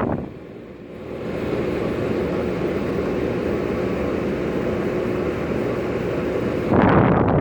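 LG 12,000 BTU air conditioner running, its fan blowing air with a steady low hum from the unit. Near the end a louder rush of air sets in, like the airflow blowing across the microphone.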